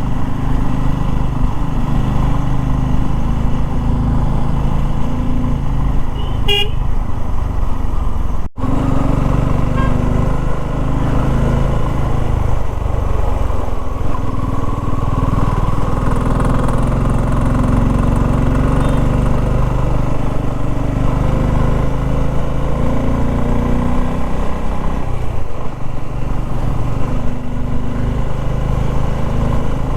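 Motorcycle engine running steadily under load while climbing a steep hairpin road, with other vehicles' horns honking in the traffic around it. The sound drops out briefly about eight seconds in.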